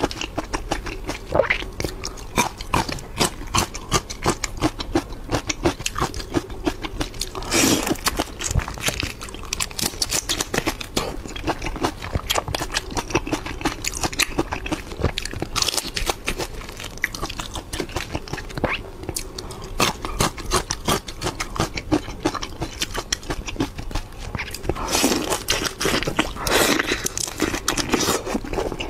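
Close-miked eating of whole shrimp: a dense run of small crunches and clicks as shell and flesh are bitten and chewed, with a few louder bursts about eight seconds in and twice near the end.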